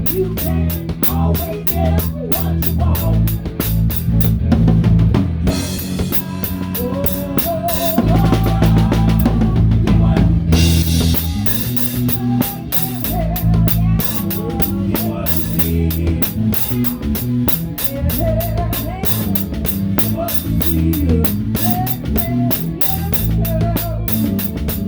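Live rock band playing, heard from close to the drummer: a Pearl drum kit with a towel-damped snare keeps a steady beat over electric bass and guitar. The cymbal strokes thin out for about five seconds in the middle, while the drums, bass and guitar carry on.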